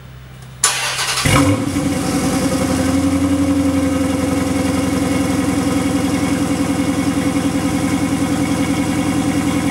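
Dodge Charger R/T's 5.7-litre Hemi V8, fitted with an AEM dry air filter, starting up at the exhaust tips. The starter cranks for about half a second, the engine catches with a flare of revs about a second in, then settles into a steady idle with an even pulse.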